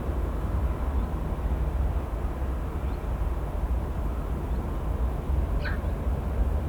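Steady low outdoor rumble at the airport, with a single short chirp falling in pitch near the end.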